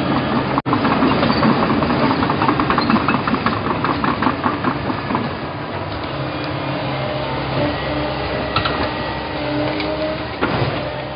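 Excavator running: a steady engine hum with a fast, rhythmic clatter that is strongest in the first few seconds, and a few sharp knocks near the end.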